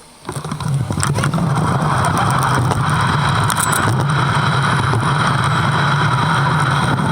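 Steady vehicle running noise from a ride that starts abruptly a moment in and holds constant, with a strong low hum and scattered clicks.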